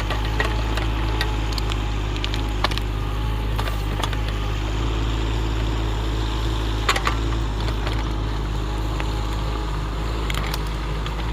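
Excavator's diesel engine running steadily, with a few sharp cracks and knocks scattered over it, the loudest about two and a half and seven seconds in.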